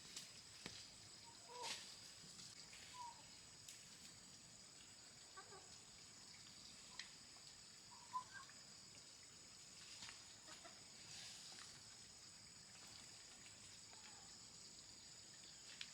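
Chickens clucking faintly now and then, a few short calls spread through the quiet, over a steady faint high-pitched whine.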